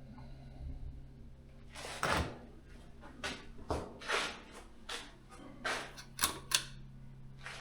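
A string of irregular scuffs and knocks, about ten of them spread over five seconds, starting about two seconds in, over a steady low hum.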